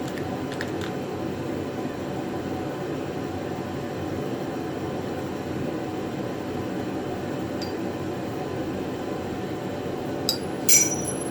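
A steady low hum, then near the end two sharp metallic clinks that ring briefly, the second louder. They come from steel parts of a welding cart knocking together as it is being assembled.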